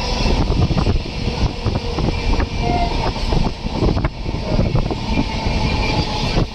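Express train running at speed, heard from aboard a coach: a steady, loud rumble of wheels on rails with a constant run of clicks and clatter.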